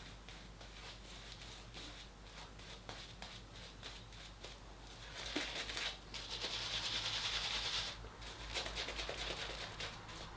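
Shaving brush whisking shaving soap into lather: a soft, wet swishing of quick strokes that gets louder for about two seconds just past the middle.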